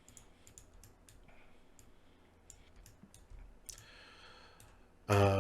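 Faint, scattered clicks of a computer mouse, a dozen or so at irregular intervals.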